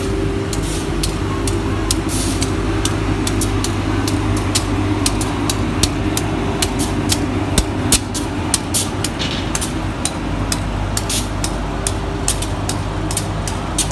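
Steady low mechanical hum of a train with a held mid tone, and many irregular sharp clicks over it.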